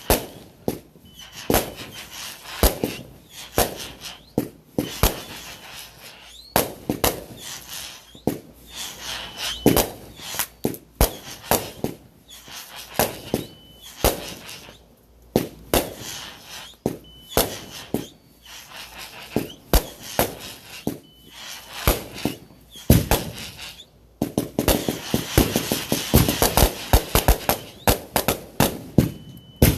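Fireworks going off: sharp cracks and bangs at irregular intervals, turning about six seconds before the end into a dense, rapid crackling barrage.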